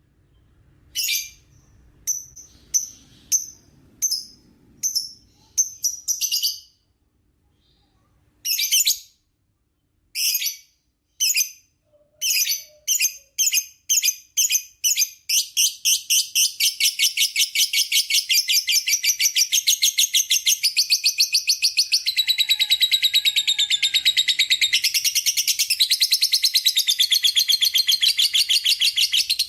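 Lovebird calling: a string of separate sharp, high chirps with short gaps, then about halfway in it breaks into a long, unbroken rapid chatter, the ngekek that lovebird keepers listen for.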